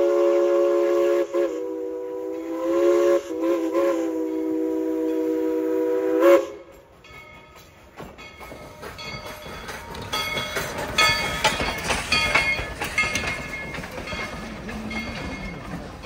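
Steam locomotive's chime whistle blown in one long chord, wavering in pitch midway, then cut off sharply about six seconds in. It is followed by a quieter run of metallic clanks and brief ringing tones from the train.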